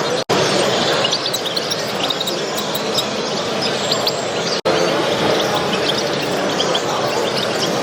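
Many small cage birds chirping and twittering together over a steady hubbub of the exhibition hall, with two very brief breaks in the sound.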